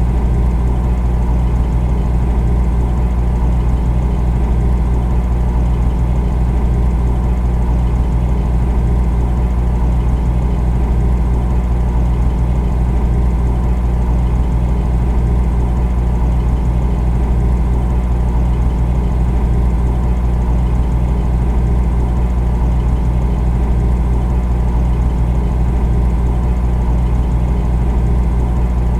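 Refrigerator compressor running with a steady low hum and a whir above it, unchanging throughout.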